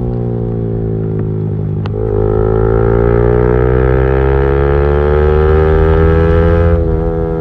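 Motorcycle engine with a loud aftermarket exhaust pulling under load: a brief dip about two seconds in, then the pitch climbs steadily and grows louder as it accelerates through the gear, before dropping suddenly near the end.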